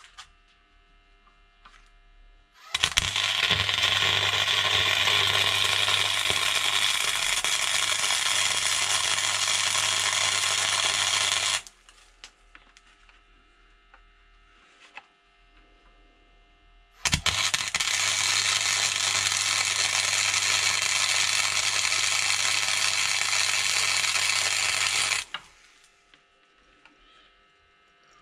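Electric welding arc crackling and buzzing in two long runs of about eight seconds each, starting and stopping sharply, as more weld tacks are laid on the brake caliper's snapped bleed nipple.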